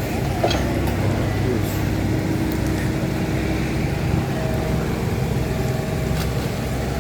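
Diesel engine of a Komatsu PC75 long-arm excavator running steadily as it digs out the river, with a few faint clicks.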